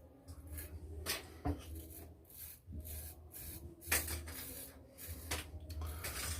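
A razor scraping through lathered stubble in a series of short, irregular strokes during the second pass of a wet shave.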